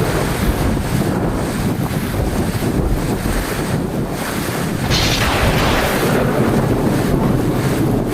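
Heavy rain, a dense steady hiss over a low rumble, swelling briefly in the upper hiss about five seconds in.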